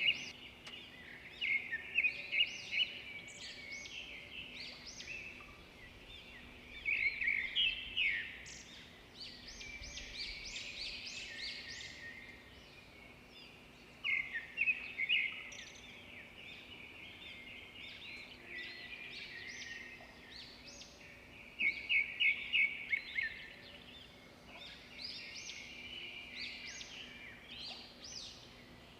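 Songbirds chirping and singing: many short, quick notes, with louder clusters of rapid chirps every few seconds. A faint steady low hum sits underneath.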